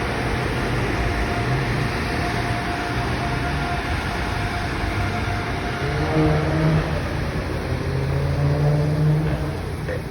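PDQ LaserWash M5 touch-free car wash running: a steady loud rush of spray or blown air, with a machine whine that slides in pitch about six seconds in.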